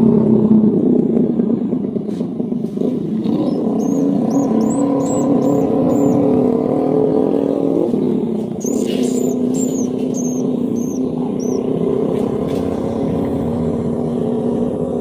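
A steady low machine drone, like a motor running, with two runs of quick, high, repeated chirps from swiftlets, about four seconds in and again about nine seconds in.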